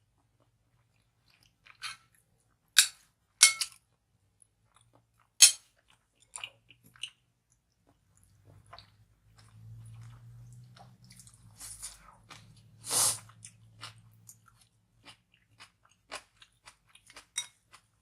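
A person chewing and biting food close to the microphone, Korean spicy rice cakes and kimchi, with scattered sharp mouth clicks, a few loud ones in the first six seconds, and a longer, louder mouth sound about 13 seconds in.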